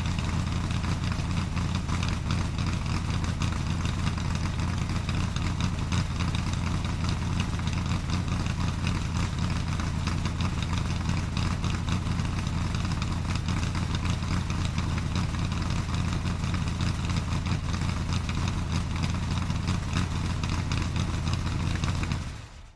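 A vehicle engine idling steadily, a low, even pulsing rumble with no revving, fading out quickly near the end.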